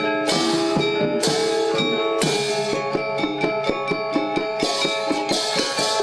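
Balinese gamelan gong ensemble playing classical lelambatan music: bronze metallophones and gongs ring steady pitched tones over drum strokes, with several bright, hissy cymbal crashes from the ceng-ceng.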